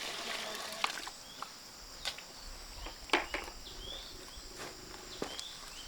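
Steady high insect drone, with short rising chirps about once a second and a few sharp knocks, the loudest about three seconds in.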